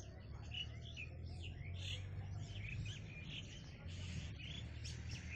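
Several small birds chirping and calling in quick, overlapping bursts, over a steady low hum.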